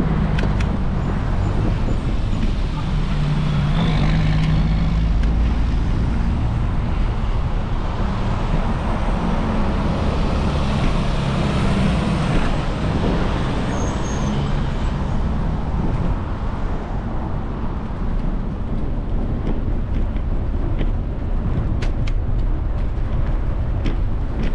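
Motor traffic passing on a road, over a steady low rumble of road and wind noise heard from a moving bicycle. The traffic is loudest in the first half and eases off after about thirteen seconds.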